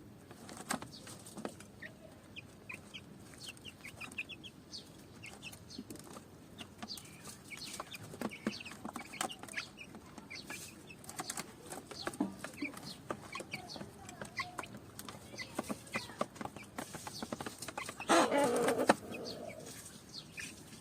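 Mother hen clucking among her chicks, with many short high peeps and small clicks throughout. Near the end there is a louder burst lasting about a second.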